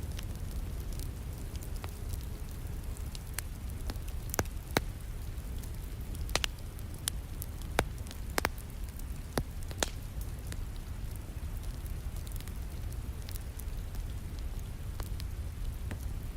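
Wood fire crackling in a fireplace, with sharp pops that come thickest in the middle stretch, over the steady hiss and rumble of falling rain.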